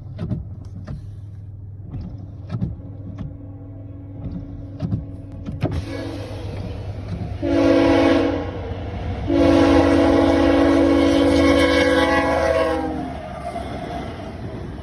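Freight train air horn sounding a short blast and then a long one, a chord of several tones, over the low steady rumble of the passing train's diesel locomotives. Scattered sharp ticks come before the horn.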